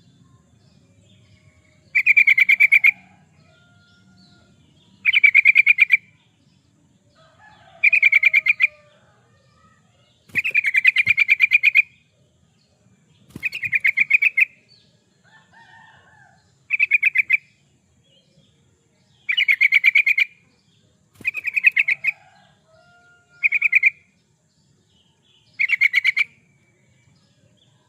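Yellow-vented bulbul (trucukan) singing: about ten short, loud bubbly phrases of rapid notes, one every two to three seconds.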